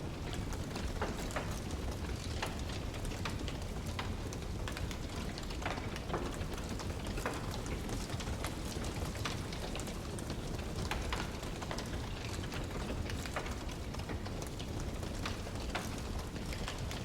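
Wood fire crackling: a steady low rush with frequent small pops and snaps at irregular intervals.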